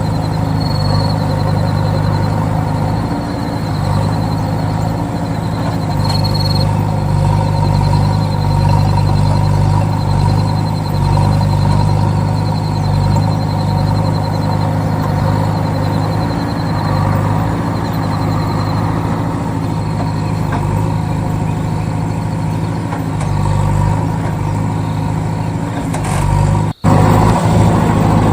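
A mini tractor's motor running steadily with a low, even drone and a thin high whine. Near the end the sound cuts out for an instant and comes back slightly louder.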